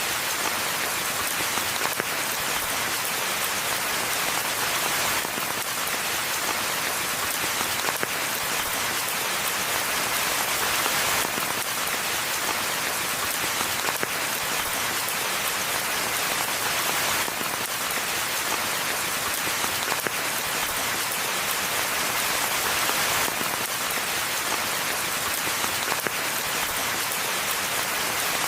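Steady rainfall on a forest pathway, a dense even patter of drops hitting the ground and leaves.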